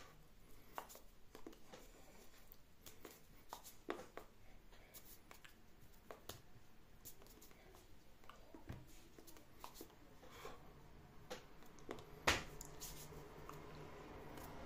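Faint, scattered light clicks and knocks of small objects being handled, with one sharper knock about twelve seconds in.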